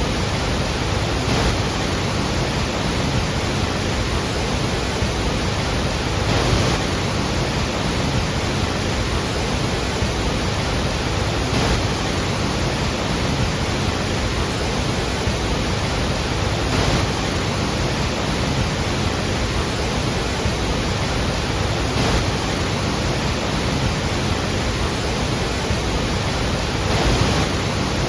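Iguazu Falls: a large waterfall's steady, unbroken rush of falling water.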